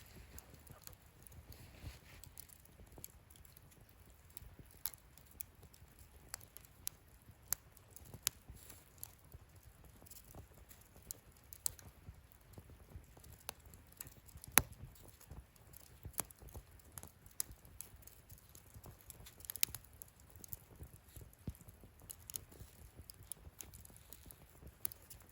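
Wood fire in a fire-pit stand crackling: irregular sharp pops and snaps over a faint low rumble, with the loudest pop about halfway through.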